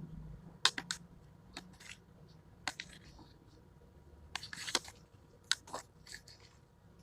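Close-up eating sounds from a person chewing soft porridge: scattered wet mouth clicks and smacks, in small clusters with short pauses between.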